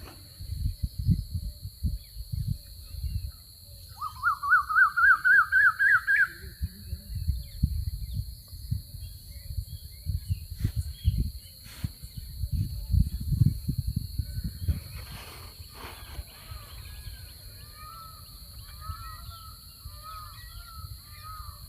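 Outdoor field ambience with gusts of wind buffeting the microphone. A bird gives one rising, rapidly warbling trill about four seconds in, and near the end a bird repeats short chirping calls.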